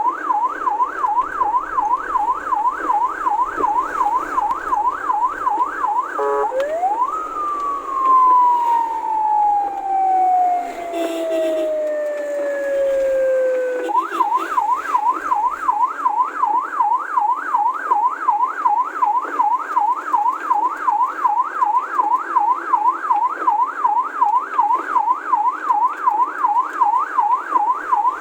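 Electronic siren sounding a fast yelp of about three to four rises and falls a second. A few seconds in it switches to a single wail that climbs sharply and then sinks slowly for several seconds, and about halfway through the fast yelp resumes.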